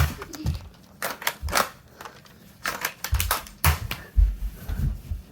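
An irregular series of sharp clicks and knocks, about a dozen, some with dull thumps beneath them.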